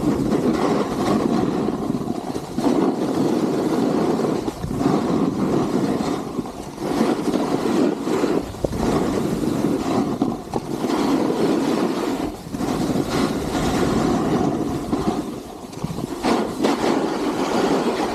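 Skis sliding and carving on snow through a series of turns, a rough rushing noise that swells and eases about every two seconds, mixed with wind on the microphone.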